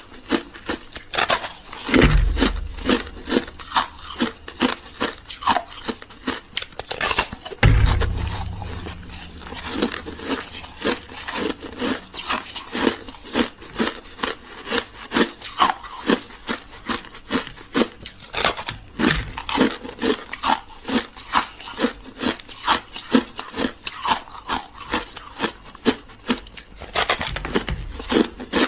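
A person chewing hard ice, close and loud crunching about two times a second. Two deep thumps come about two seconds in and again about eight seconds in.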